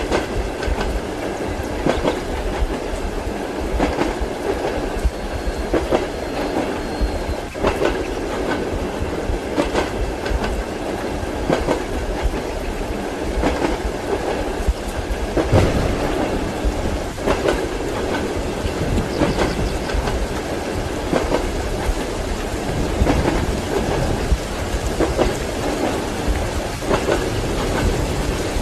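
Train wheels clacking repeatedly over rail joints over a steady rolling rumble, heard from inside a passenger compartment.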